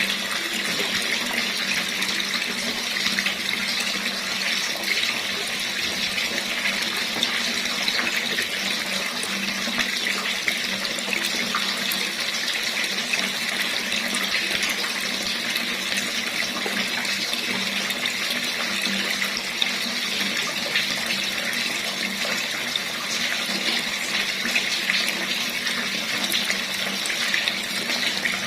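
Water running steadily from a tap, an even splashing rush without change.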